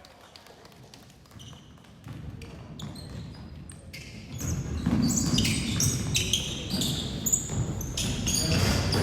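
Basketball game play on a gym court: a ball bouncing and sneakers squeaking on the floor over crowd and player voices. It starts quiet and grows louder from about four seconds in.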